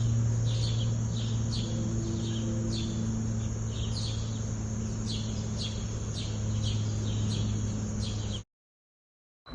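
A small bird giving short, falling chirps about twice a second over a steady low hum. The sound cuts off suddenly near the end.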